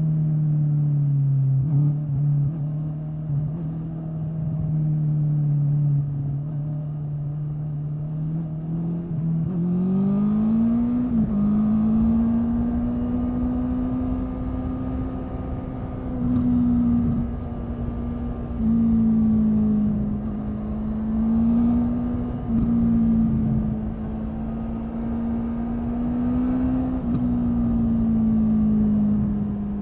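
Honda 650 inline-four motorcycle engine running at steady throttle. About a third of the way in its pitch rises as it picks up speed, then it holds with a few short dips where the throttle eases.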